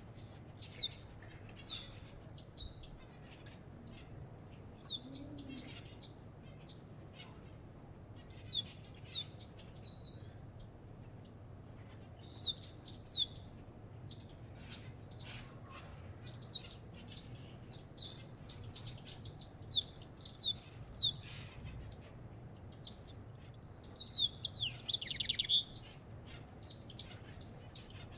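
A finch known to bird-keepers as the African goldfinch singing in repeated phrases of quick, high, downward-sweeping notes, with pauses of a second or more between phrases. The phrases end in a buzzier trill late on, over a faint low steady hum.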